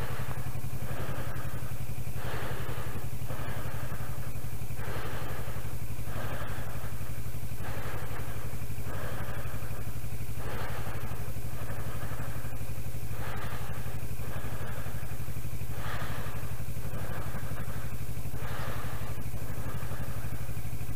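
Kawasaki Versys 650's parallel-twin engine running steadily at low revs as the motorcycle rides slowly through snow. Over it, a hiss swells and fades about once a second.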